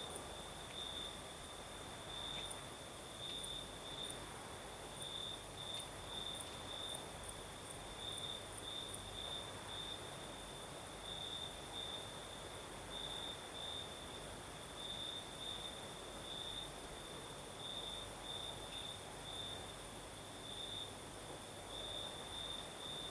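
Crickets singing a steady high trill that swells in louder pulses every second or so, with faint higher ticking over it. Underneath is a soft, even hiss of night breeze.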